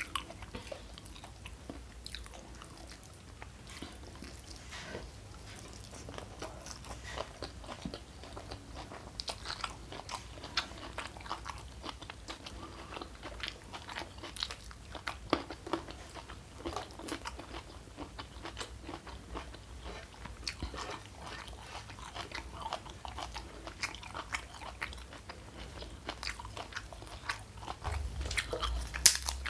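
Close-miked chewing and biting of food, with irregular small crunches and clicks; a few sharper, louder crunches near the end.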